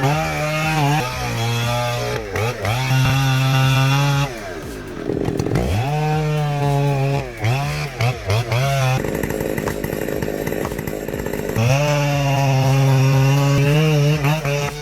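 Two-stroke chainsaw running at high revs, its pitch dropping and climbing again several times as the throttle comes off and back on. A rougher, noisier stretch comes a little past the middle.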